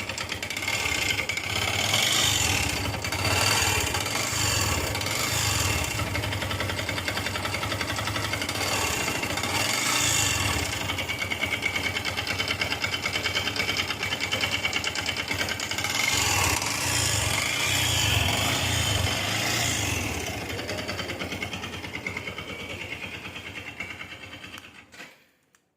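Yamaha FZS V2 single-cylinder air-cooled engine running with a rapid mechanical rattle from the cylinder bore and piston, the noise the mechanic presents as a bore-piston fault (worn bore or piston). The level swells a few times and falls away near the end.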